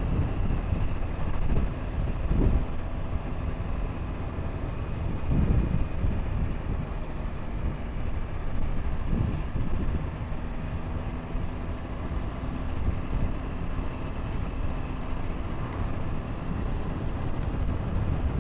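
Motorcycle riding at a steady speed: the engine drones evenly under buffeting wind on the microphone.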